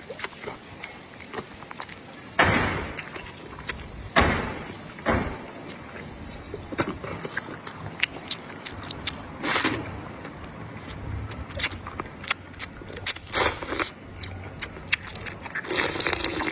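Close-up eating sounds from a bowl of spicy sheep's-leg noodle soup: wet chewing and small clicks, broken by about half a dozen loud slurps, each lasting about half a second.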